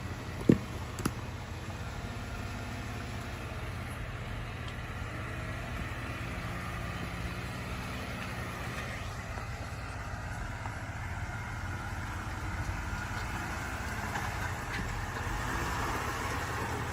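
Vehicle engine running steadily at idle, with two or three sharp knocks in the first second.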